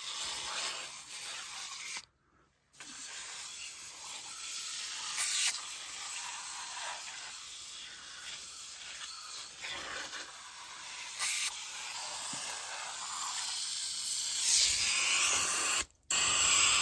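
Aerosol can of foaming coil cleaner spraying onto an evaporator coil: a steady hiss, stopping briefly about two seconds in and again near the end, with the can running nearly empty.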